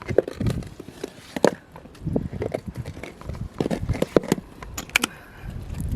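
Irregular clacks and knocks of stones against stones, as rocks on a rocky shore are shifted and pried at by hand.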